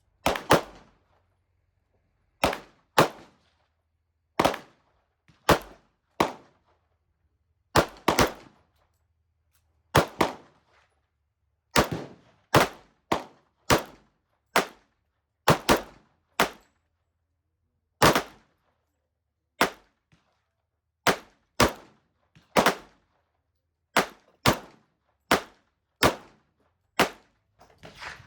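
A firearm fired repeatedly at a shooting range: about thirty sharp shots, some single and some in quick pairs, with pauses of up to two seconds between strings.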